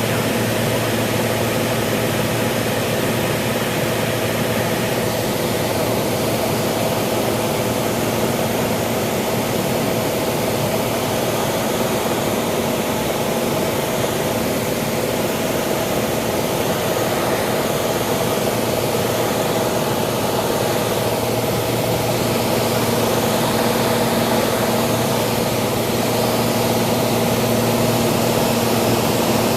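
Cessna 182's piston engine and propeller droning steadily in flight, an even, unchanging hum with no speech over it.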